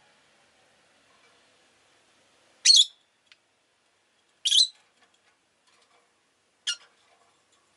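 Rosy-faced lovebird giving three short, shrill chirps about two seconds apart, the last one weaker.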